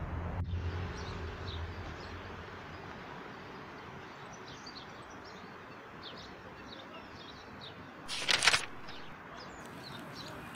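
Small birds chirping in quick short calls over steady outdoor background noise. About eight seconds in, a short loud burst of noise stands out as the loudest sound.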